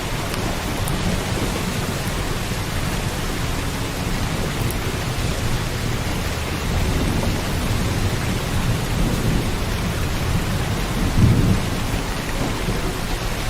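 Steady rain with a low rolling rumble of thunder beneath it that swells briefly near the end.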